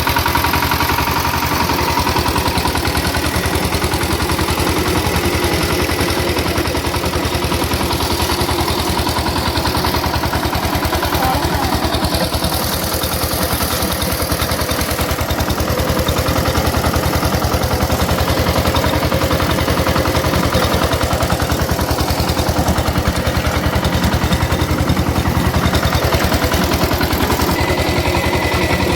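Maha Shakti power tiller's single-cylinder diesel engine running steadily, with fast, even firing beats that hold level throughout.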